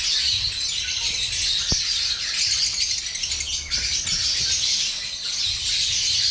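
A flock of caged lovebirds chattering: dense, continuous high-pitched chirping and calling from many birds at once.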